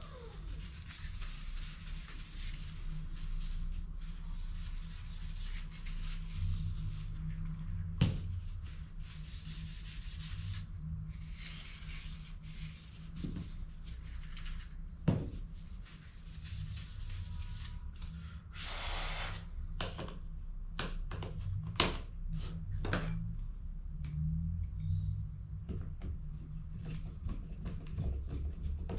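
Hands working on a laser toner cartridge: repeated rubbing and scraping of its plastic parts, with a few sharp clicks and a cluster of knocks about two-thirds of the way through, over a steady low hum.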